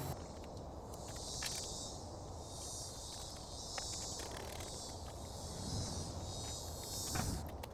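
An insect calling outdoors: a high trill that repeats about once a second, over a low steady hum and a few light clicks.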